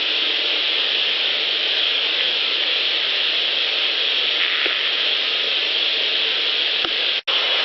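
Steady hiss of field-recorder audio played back at high gain, with a couple of faint ticks. The sound cuts out abruptly for an instant near the end.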